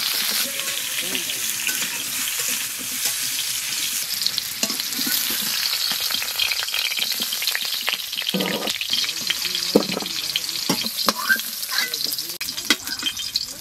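Radish pieces sizzling in hot mustard oil in an iron kadai, with a metal slotted spoon scraping and clinking against the pan as they are stirred and then lifted out; the clicks grow more frequent in the second half and the sizzle drops a little near the end.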